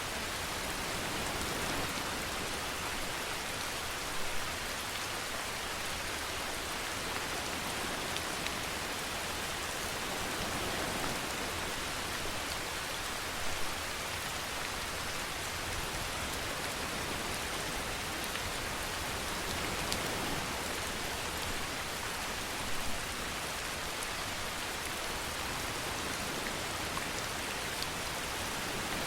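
Steady rainfall, an even hiss of drops on a surface, with a few brief louder patters.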